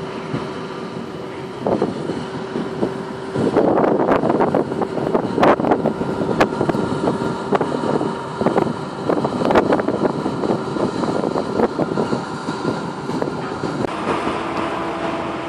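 Machinery running with a steady hum, overlaid by irregular knocks and clatter that grow louder a few seconds in.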